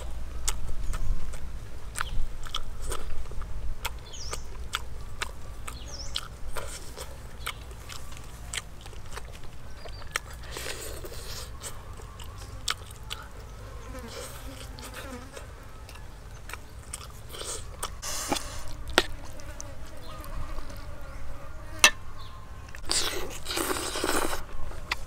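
A person eating roast chicken and salad with her hands: close-up biting and chewing with many sharp clicks, and a few longer rustling bursts.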